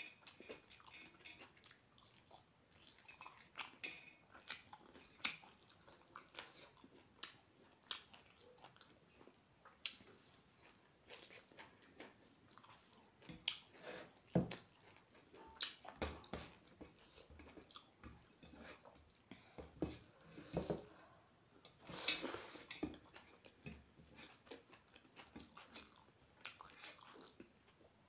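Faint eating sounds: a person chewing rice and fried pork, with irregular wet mouth smacks and clicks.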